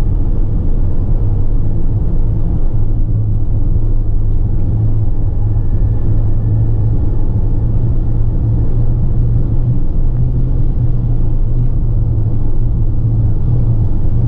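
Steady low rumble of engine and road noise inside the cab of a 2016 Ford Transit tipper truck driving at speed.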